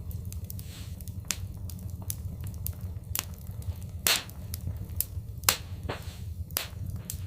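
Wood fire crackling: irregular sharp pops and snaps over a steady low rumble, with two louder pops about four and five and a half seconds in.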